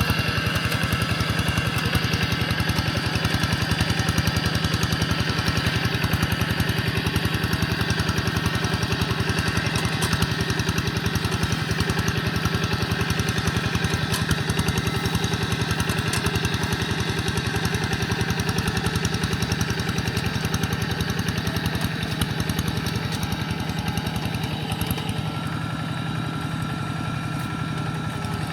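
Quick G1000 walking tractor's single-cylinder diesel engine running steadily with an even, rapid beat, easing off slightly near the end.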